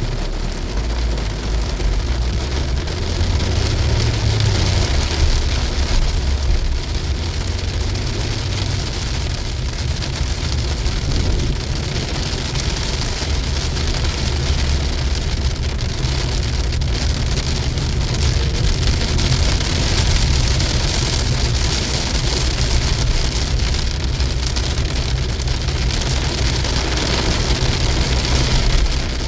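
Heavy rain drumming on a moving car, over a steady low rumble of engine and road noise.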